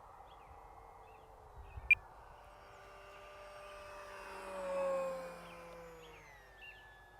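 FMS Cessna 182 Skylane RC plane's electric motor and propeller passing by: the whine swells, is loudest about five seconds in, and drops in pitch as it goes past. A sharp click about two seconds in.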